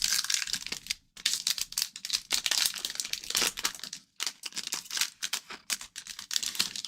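A hockey card pack's foil wrapper being torn open and crinkled by hand: crackling in bursts, with two short pauses.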